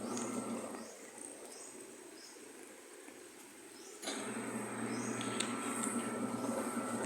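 A hungry kitten growling over its food, a low rasping growl in two stretches: one fading about a second in and another starting about four seconds in.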